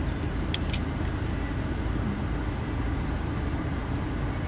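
Steady low rumble of a car idling with its air conditioning running, heard from inside the cabin, with two light clicks about half a second in.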